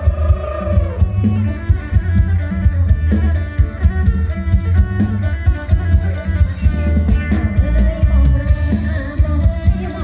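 Band music with a drum kit and guitar over a heavy bass, driven by a steady beat.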